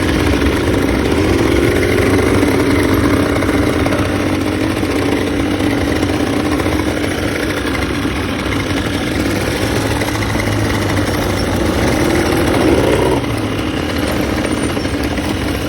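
ATV (quad bike) engine running while riding, its pitch rising about thirteen seconds in and then easing off. The sound cuts off abruptly at the end.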